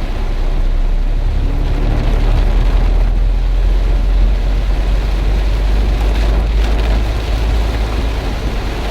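Heavy rain pouring steadily, over a strong, steady deep rumble.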